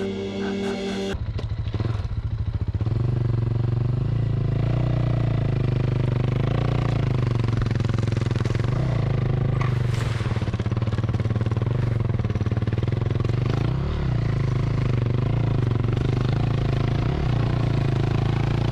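A dirt bike's single-cylinder engine running steadily, with small rises and falls in speed; a short stretch of steady held tones ends about a second in, where the engine sound begins.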